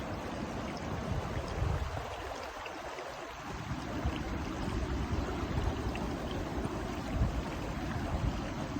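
Steady rush of flowing stream or river water.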